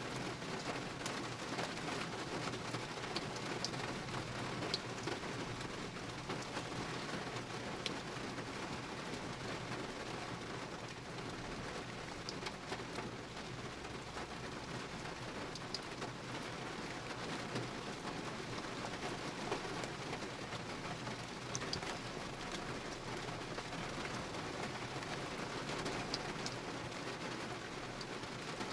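Heavy rain falling steadily, a dense hiss with scattered drops ticking close by.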